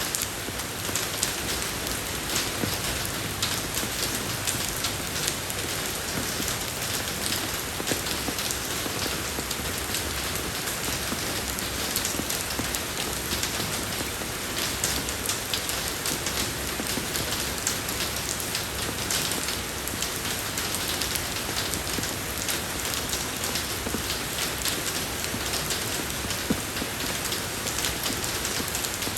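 Steady rain falling on a road surface, an even hiss with many small drop ticks throughout.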